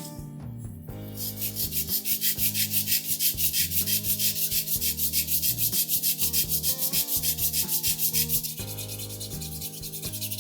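Sandpaper rubbed quickly back and forth on a plastic scale-model part, about six even strokes a second. It starts about a second in and stops shortly before the end, over background music.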